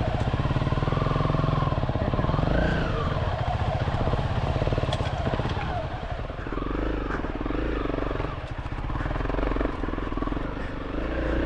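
Honda CRF300L dual-sport motorcycle's single-cylinder four-stroke engine running at low revs, the pitch rising and falling as the throttle is worked.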